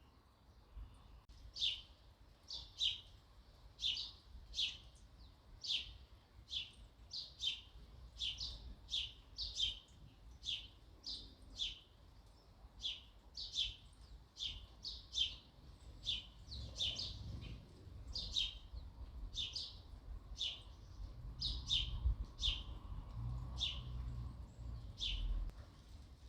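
Sparrow chirping: a long run of single, sharp chirps that fall in pitch, a little more than one a second. A faint low rumble sits underneath and grows stronger in the second half.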